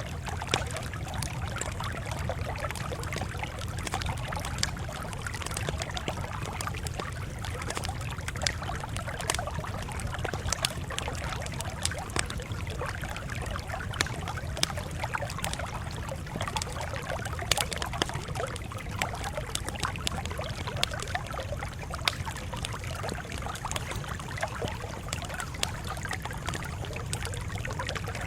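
Campfire burning, with frequent irregular crackles and pops over a steady low hiss of the flames.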